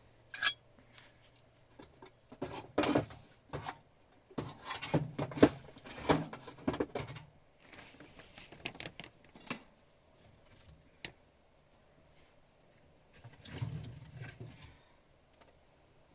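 Irregular knocking, clicking and rustling of objects being handled, busiest in the first half and again near the end, with one sharp click about two-thirds of the way through.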